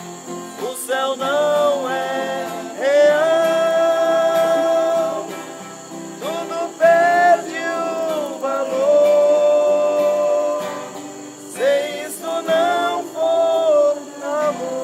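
Voices singing a gospel hymn melody with long held notes, over guitar accompaniment.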